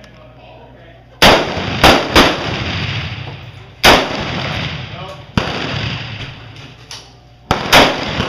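Rifle shots from several shooters at a range: about seven sharp reports at uneven intervals, starting a little over a second in, some coming in quick pairs. Each shot trails off in a long echo.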